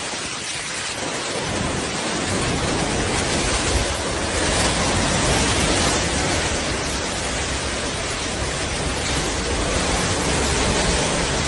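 Hurricane-force wind roaring as a loud, dense, steady rush of noise, filling in at the low end over the first second or two and then holding steady.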